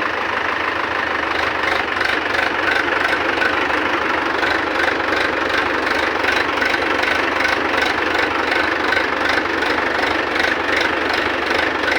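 Tractor diesel engine running steadily at idle with an even knocking beat.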